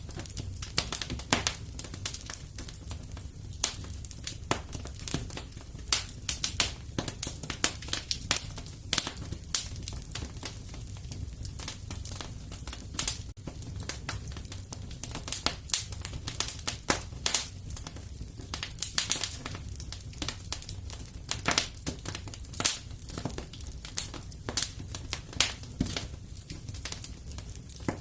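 Wood fire crackling and popping, with frequent irregular sharp pops over a steady low rumble of burning.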